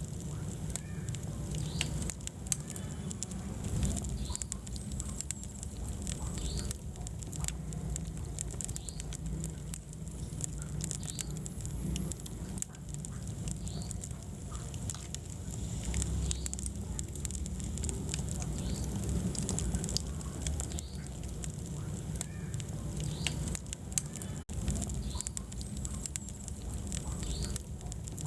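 Wood fire burning in a fireplace: irregular crackles and small pops over a steady low rumble of flames.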